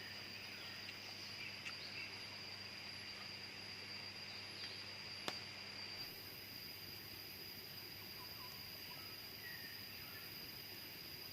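Tropical forest ambience: a steady high-pitched insect drone with a few faint scattered chirps, and one sharp click about five seconds in.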